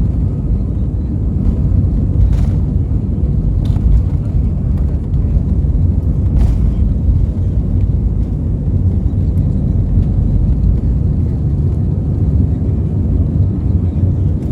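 Steady, loud, low rumble of an airliner's jet engines and airflow heard from inside the passenger cabin during takeoff, with a few faint clicks.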